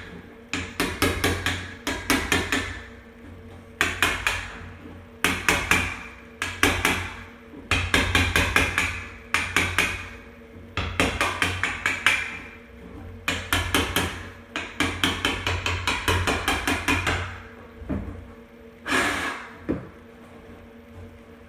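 A hammer tapping lightly and rapidly in short runs of one to two seconds, with brief pauses between runs. The tapping stops near the end, leaving a couple of single knocks.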